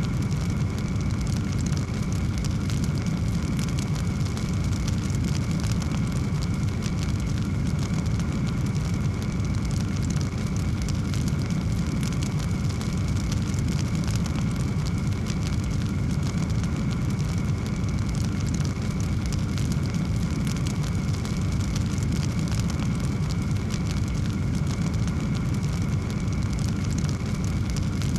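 Fireplace fire burning with a steady low roar and many small crackles and pops throughout.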